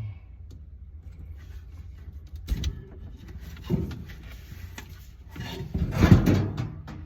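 Knocks and scraping sounds of something being handled, over a steady low hum. There are two short knocks a few seconds in, then a louder, longer clatter near the end.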